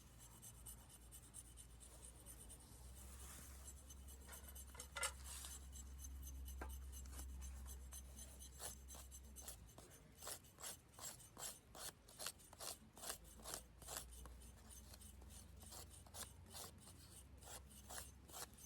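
A striker scraped along a ferrocerium fire-starter rod in quick rasping strokes, a few at first and then a steady run of about two a second in the second half, shaving off metal dust and throwing sparks to light tinder. A low rumble runs under the first half.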